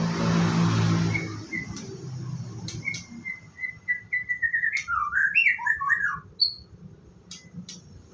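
White-rumped shama (murai batu) singing. A run of short whistled notes on one pitch turns into a quick, tumbling warble and ends with a single high note. A low hum is heard in the first second, and a few sharp clicks are scattered through the song.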